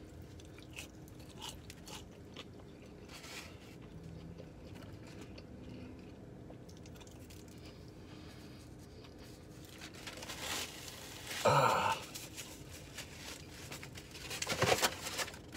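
A person chewing crispy fried chicken with soft crunches and wet mouth clicks, and a brief low hum about eleven and a half seconds in.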